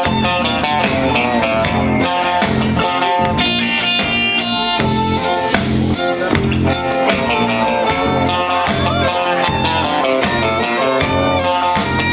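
Instrumental introduction of a rock band song, with guitars playing over bass and drums.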